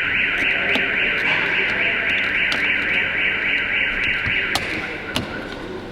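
An electronic alarm sounding with a fast warble that holds steady, dropping to a fainter tone a little over four and a half seconds in. A few sharp clicks are heard along with it.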